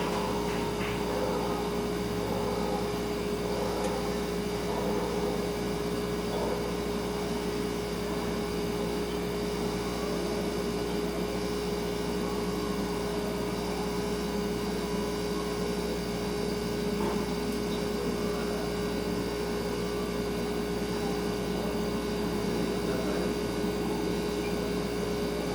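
Refrigerator running with a steady hum over quiet room tone, with a few faint ticks.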